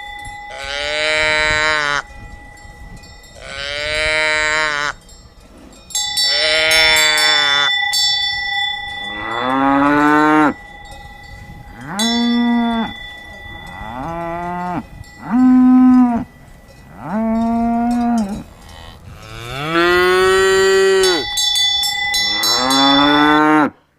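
Cattle mooing: about ten long moos one after another, several rising and then falling in pitch.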